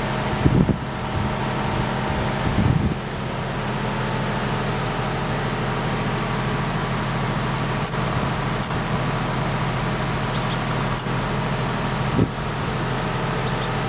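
GBPOWER 50 kVA super-silent diesel generator set running steadily, a low even hum heard from 7 meters away and measured at about 59–60 dB. A few brief low bumps stand out about half a second in, near three seconds and near the end.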